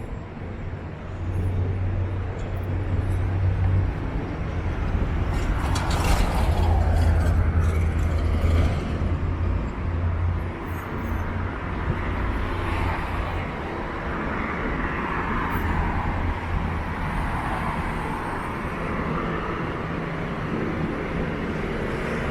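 City street traffic: a motor vehicle's engine running close by, with a steady low hum and broad road noise, loudest a few seconds in.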